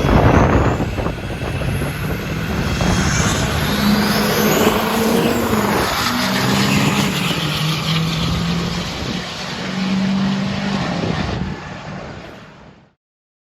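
Diesel pickup truck engine running hard under load, with a high whine rising in pitch over the first few seconds. The sound fades and cuts off near the end.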